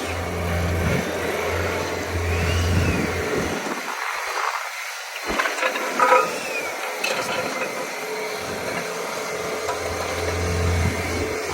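Bobcat S66 skid steer's diesel engine running under load while it works a hydraulic Harley rake through soil. Its low drone dips away for a moment about four seconds in, then returns.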